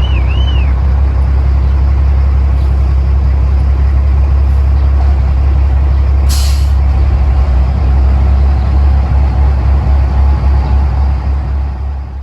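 International 4900 semi truck's diesel engine running loud and steady, with a short burst of air hiss, like an air brake releasing, about six seconds in.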